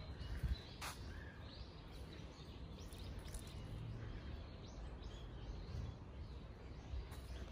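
Birds chirping faintly on and off over a steady low outdoor rumble, with a soft thump about half a second in and a brief click just after.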